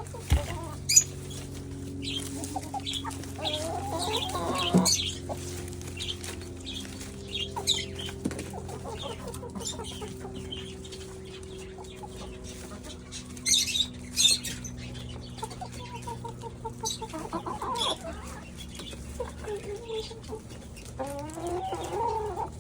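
Chickens clucking while they feed on kale and weeds, with a few longer wavering calls and many short taps and rustles as they peck at the greens.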